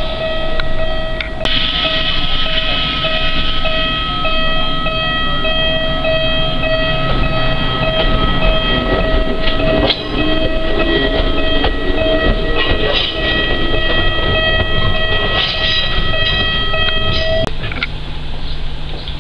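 Echizen Railway MC6001 electric railcar pulling out of the station, its motors and wheels rising and falling in pitch. Over it a pulsing, ringing warning signal sounds steadily and stops near the end.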